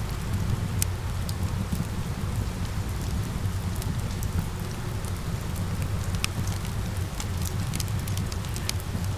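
Steady rain ambience mixed with a crackling fireplace: a continuous hiss and low rumble, with scattered sharp crackles or pops.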